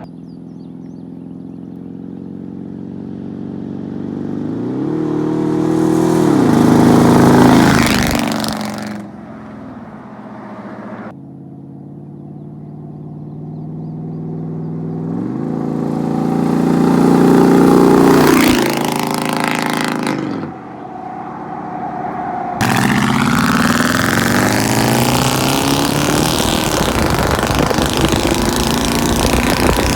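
Straight-piped, catless 5.7-litre V8 exhaust of 88–98 Chevy trucks in two drive-bys: each time the engine note climbs to a loud peak as the truck accelerates past, about seven and eighteen seconds in, then falls away. About seven seconds before the end it cuts suddenly to a loud, steady, rough rumble.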